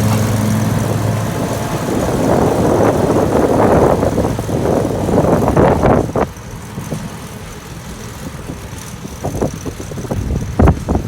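Spartan zero-turn riding mower's engine running as it pulls away, with a rough rumble that drops noticeably quieter about six seconds in.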